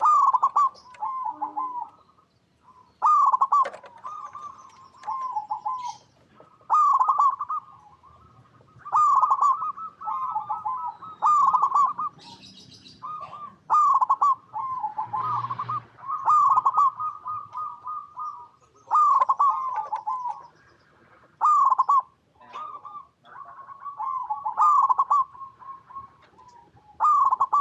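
Zebra dove (perkutut) song: phrases of quick, rolling coo notes repeated about every two seconds.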